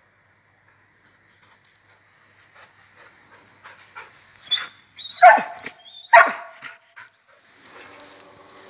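A dog barking three times in quick succession about halfway through, the middle bark the loudest.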